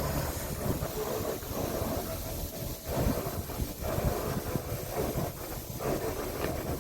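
A pickup truck's engine running, with a steady, uneven low rumble.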